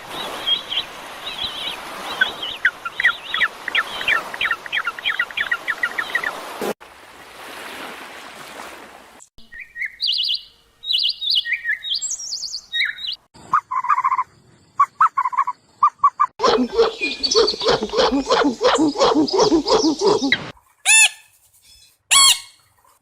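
A string of short animal-call clips with abrupt cuts between them, mostly quick bird-like chirps and tweets. A run of rapid repeated chirps comes over a noisy background in the first few seconds, and denser, lower repeated calls follow later.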